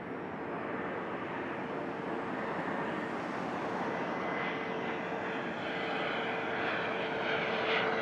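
Aircraft engines running: a steady rush with a faint steady whine, slowly growing louder.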